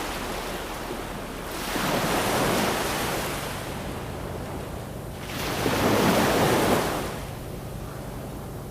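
Ocean waves washing onto a shore, with two larger waves swelling up and breaking about two seconds and five and a half seconds in over a steady surf hiss.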